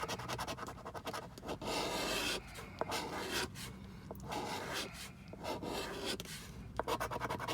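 Scratch-off lottery ticket being scratched, in runs of quick scraping strokes broken by short pauses.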